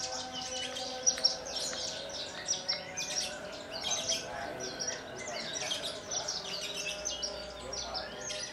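A Javan bush lark (branjangan) singing a rapid, continuous stream of varied high chirps and trills, with faint steady lower tones underneath.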